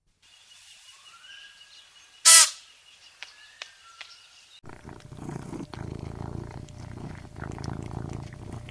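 A brief high-pitched call about two seconds in. From about halfway through, a domestic cat purrs steadily with a low, even rumble.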